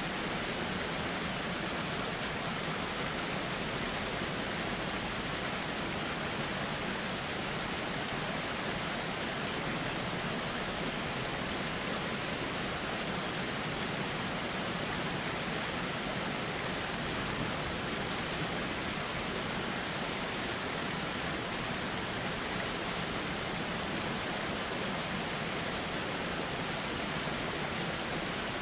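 Steady rushing of a flowing river, an even wash of water noise with no separate splashes or changes.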